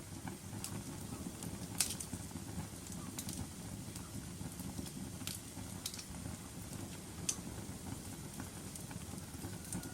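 Fireplace fire crackling: a steady low rumble of flame with scattered sharp pops and snaps, the loudest pops just under two seconds in and about seven seconds in.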